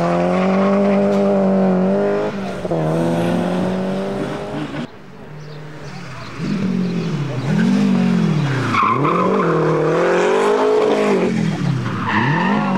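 Rally car engine driven hard on a stage, revs climbing and dropping through gear changes. About five seconds in the sound falls away briefly, then the engine comes back in quick swells, revving up and lifting off about once a second.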